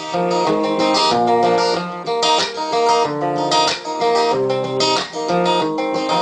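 Background music: strummed acoustic guitar playing an instrumental passage between sung verses, with steady repeated strums.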